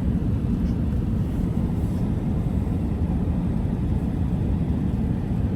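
Steady low rumble of a 2024 Ram 1500 Hemi V8 pickup on the move, engine and tyre noise heard from inside the cab.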